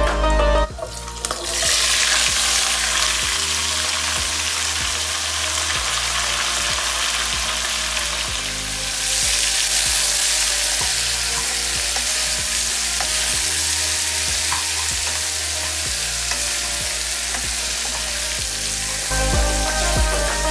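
Ingredients frying in hot mustard oil in a pan: a steady, loud sizzle that starts about a second in and gives way to background music near the end.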